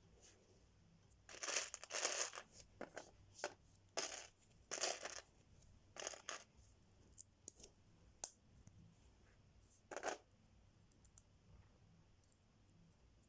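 Lego set packaging being torn open and crinkled in several short bursts, with a few sharp clicks in between.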